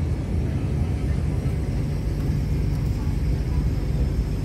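MTR Kwun Tong Line C-Train running between stations: a steady, loud low rumble of wheels and running gear.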